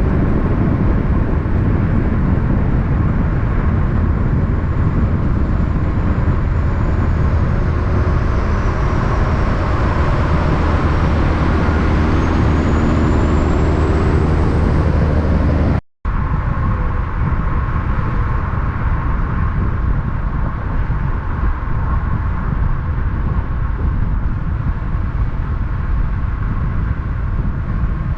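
Heavy diesel truck engine running with a steady deep rumble. The sound drops out for a moment about halfway through, then comes back as lighter engine and road noise.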